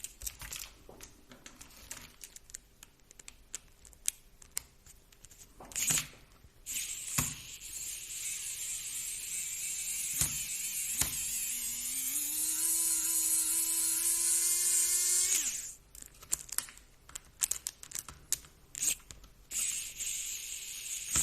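Small cordless electric screwdriver running for about nine seconds, its hum rising in pitch as it spins up, then holding steady before it cuts off suddenly. It is trying to back out a stubborn small screw, and the owner blames its low battery for its weakness. Sharp clicks of the driver and plastic parts being handled come before and after.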